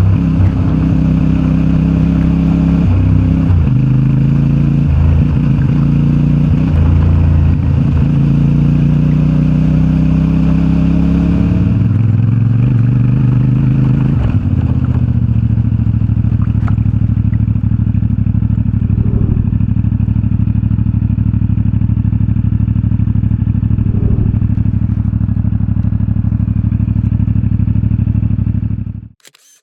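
CFMoto 450MT's parallel-twin engine through its stock exhaust. For about the first twelve seconds the revs rise and fall, then the engine settles into a steady, even note. The sound cuts off abruptly shortly before the end.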